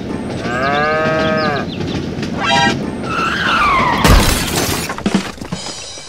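Cartoon sound effects over background music: a cow mooing about a second in, then a falling whistle and a loud crash, as of a load of miniature bricks tipped out of a trailer, about four seconds in.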